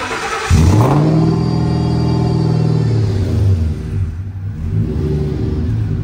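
Coyote 5.0 V8 swapped into a 1957 Ford, cold-starting. The starter cranks briefly, the engine catches about half a second in with a flare of revs, then settles after a few seconds into a fast cold idle.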